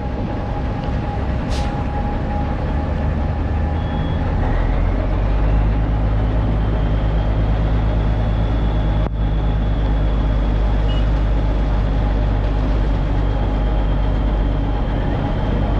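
Heavy diesel construction machinery running under load. About four to five seconds in the engine note grows heavier and a whine rises, then holds steady.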